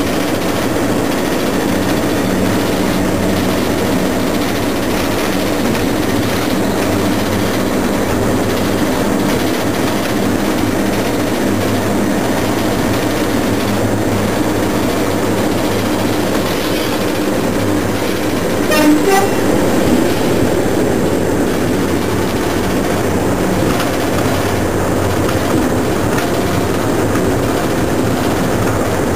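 Train running along the line, heard from inside the driver's cab: a steady engine drone with wheel-on-rail noise, and a brief louder sound about two-thirds of the way through.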